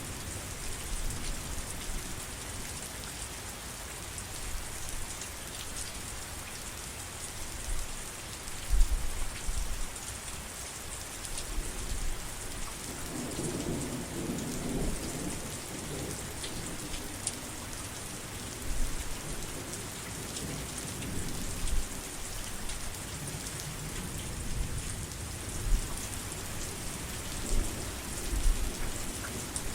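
Steady heavy rain falling, with a low rumble of thunder for a few seconds near the middle.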